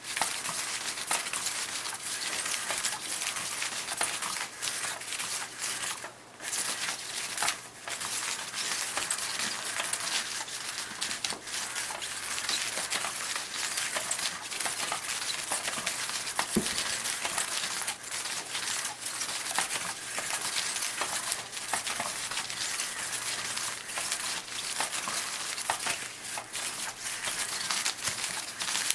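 Crinkly rustling and scratching of the sheet on a 'Catch Me If You Can' cat toy as its teaser wand moves underneath and cats paw and pounce at it, with brief lulls about six and seven and a half seconds in.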